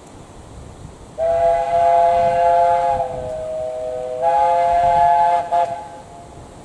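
Chime whistle of the Bure Valley Railway steam locomotive No 8 'John of Gaunt' sounding a long toot, a three-note chord that softens briefly in the middle, swells again and then stops, as the engine whistles at the level crossing.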